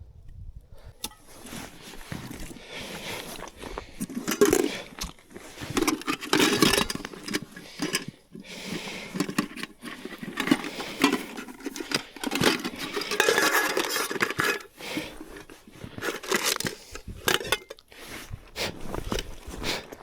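Irregular scraping, clinking and rustling of camp utensils or cookware being handled, with scattered sharp clicks.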